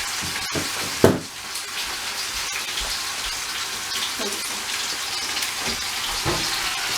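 Chicken noodle stir-fry sizzling steadily in a hot pan, with a sharp knock about a second in and a few lighter knocks after.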